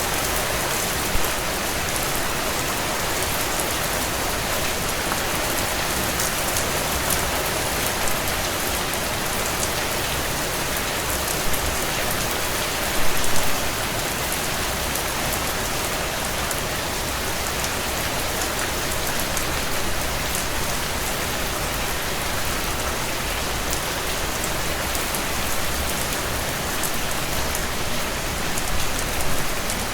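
Steady heavy rain on window glass, with a few brief crackles and pops from a wood fire; the loudest cluster of pops comes about halfway through.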